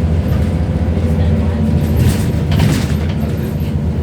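Scania N94UD Omnidekka double-decker bus on the move, heard from inside the passenger saloon: a steady low engine and road drone, with brief rattles about two seconds in and again shortly after.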